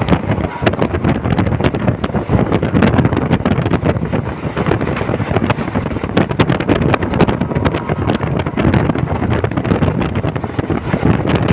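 Passenger train running, a steady dense rattle and clatter, with wind buffeting the microphone.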